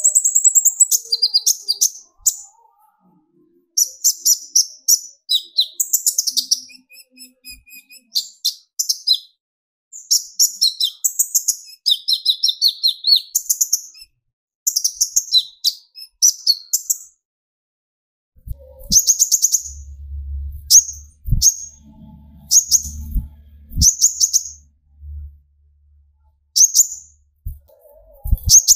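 Kolibri ninja (konin) sunbird singing in rapid, high-pitched chattering bursts, its fast 'tembakan' shooting song, phrase after phrase with short pauses. Several low thumps come through in the second half.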